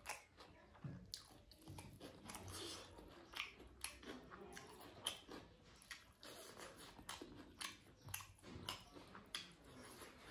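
Close-miked chewing and wet mouth sounds of a person eating rice, dal and vegetables by hand, with many small irregular clicks and smacks.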